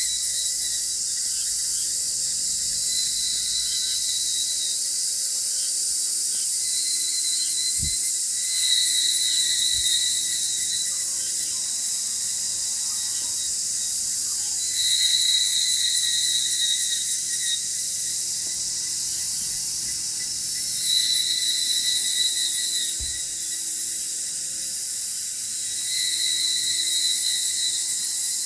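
Insects singing outdoors: a dense, steady high-pitched chorus with a second shrill trill that comes and goes every few seconds. Two faint low knocks are heard about a third of the way in and again near the end.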